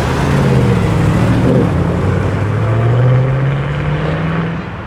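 A car engine accelerating: its revs drop briefly about a second in, then climb steadily for a few seconds before the sound falls away near the end.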